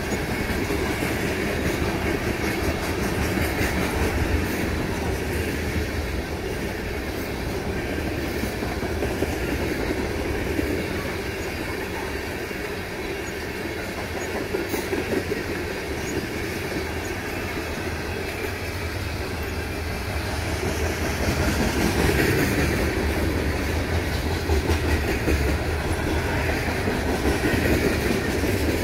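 Freight train's tank cars and covered hoppers rolling past on the rails: a continuous rolling noise with wheels clicking over the rail joints, growing louder about three quarters of the way through.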